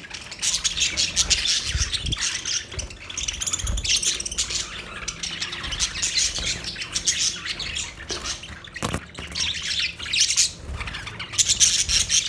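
A group of budgerigars chattering and chirping continuously, many quick overlapping warbles and squawks, with a single tap about three-quarters of the way through.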